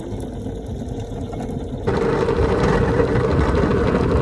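Homemade two-seat sled being towed behind a car, a rough rattling and scraping rumble as it drags over the ground. It jumps louder about two seconds in.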